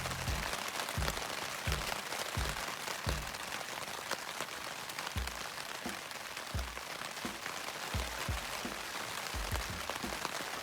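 Steady rain falling, a constant hiss broken by irregular dull thuds of heavy drops landing close by.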